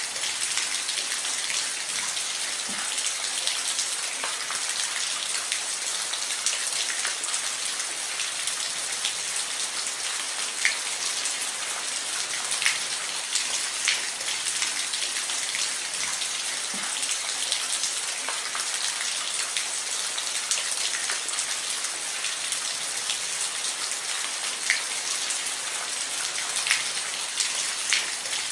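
Steady rain falling on a roof: a dense even hiss with scattered louder individual drop impacts.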